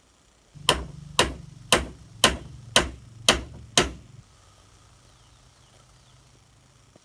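Hammer blows, seven sharp strikes in a steady rhythm of about two a second, then stopping.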